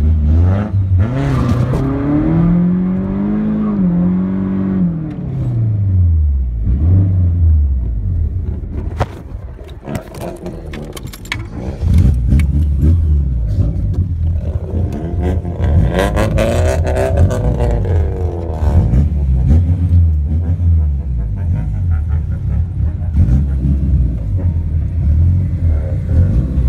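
Tofaş car's engine heard from inside the cabin under hard acceleration: it climbs in pitch in the first few seconds and drops back, goes quieter for a few seconds in the middle, then runs loud again with its pitch rising and falling.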